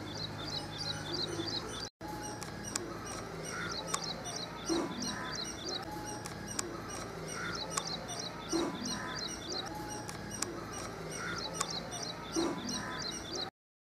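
Birds chirping: a dense run of short, high chirps several times a second, with a lower, rising call coming back about every four seconds. It cuts off abruptly just before the end.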